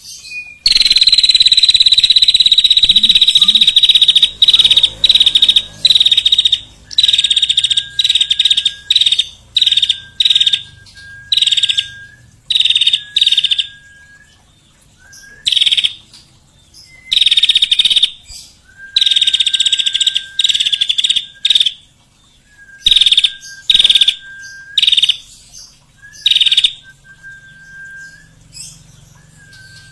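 Songbird calling: a long rapid trill, then a run of short trills, each ending in a brief steady whistled note.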